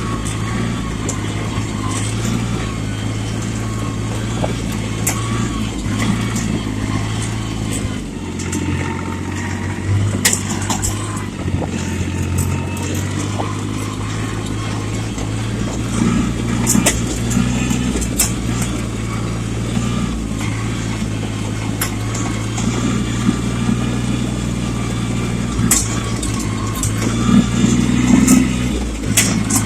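Yanmar tractor's diesel engine running under load, its note dropping for a few seconds about a third of the way in before picking back up, with occasional sharp clanks and rattles.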